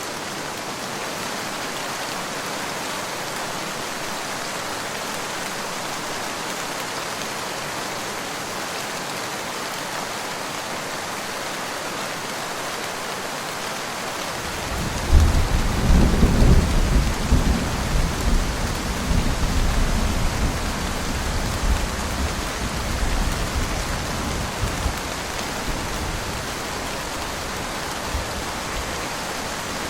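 Steady rain. About halfway through, a long rumble of thunder rises suddenly, then rolls and fades away over about ten seconds.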